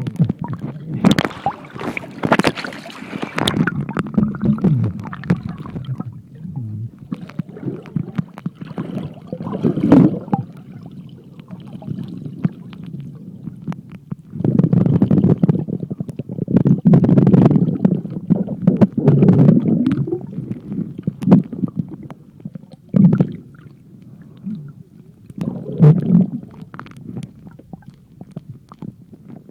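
Muffled underwater noise picked up by an iPhone 3GS sealed in a plastic underwater pouch: water moving against the pouch and the pouch being handled, in irregular surges with scattered sharp clicks.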